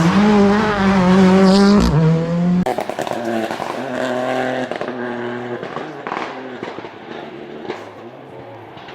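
Rally car with a 1.6-litre turbocharged four-cylinder engine passing close at speed, loud at high revs. After about two and a half seconds the revs drop abruptly with a quick run of sharp pops, and the engine note fades as the car drives away.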